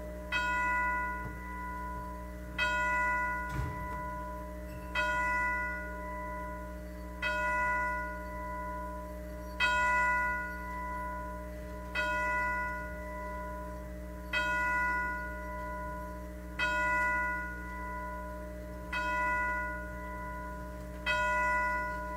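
Church chime striking the hour: the same single bell tone struck ten times, about every two and a half seconds, each stroke ringing on and fading before the next. A brief low thump sounds about three and a half seconds in.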